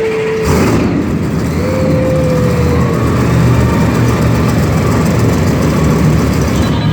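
Monster truck engine starting up about half a second in and running steadily, loud, as the truck is fired up for its remote ignition interrupter test.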